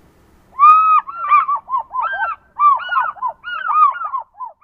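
African fish eagle calling: a series of loud, ringing yelps in quick groups, each note arching up and falling away.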